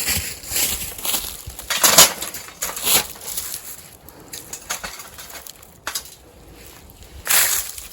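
Dry twigs and kindling crackling and snapping in irregular bursts, with the loudest snaps about two seconds in and just after seven seconds, as a newly lit campfire of fallen branches catches.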